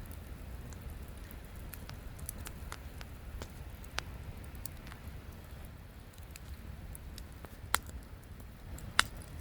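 Campfire wood crackling, with irregular sharp pops over a low steady rumble; the loudest pops come about four, eight and nine seconds in.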